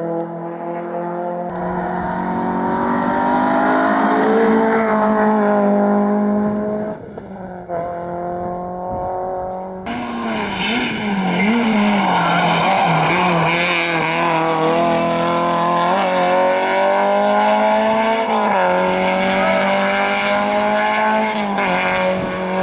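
Rally car engines revving hard, the pitch climbing and dropping again and again through gear changes and lifts, with tyres squealing. The sound changes abruptly about ten seconds in, as a different car or stretch of road takes over.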